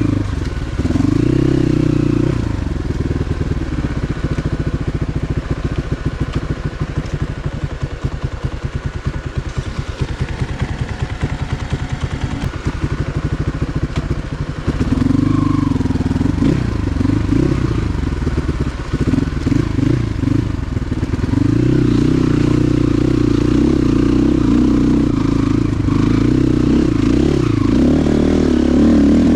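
Motorcycle engine running, chugging at low revs for the first half. It revs up and down unevenly after about halfway, then holds a steady higher speed over the last several seconds.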